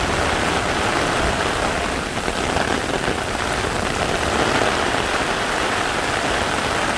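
Heavy rain pouring down steadily, drumming on an umbrella held overhead and on the street around it.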